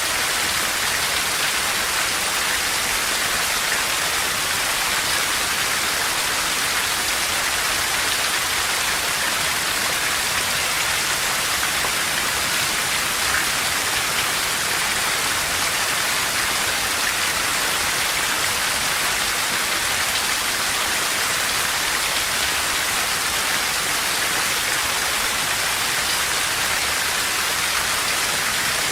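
Steady heavy rain falling on forest vegetation and ground, a dense even hiss with no let-up and no thunder.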